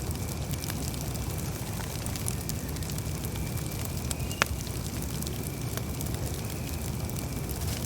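Campfire burning with a steady low rumble and scattered crackles, and one sharp, louder pop about halfway through. A faint steady high tone comes and goes underneath.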